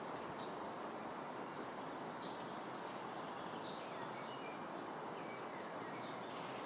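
Steady outdoor background noise with a few faint, short bird chirps every second or two and one brief high whistle about four seconds in.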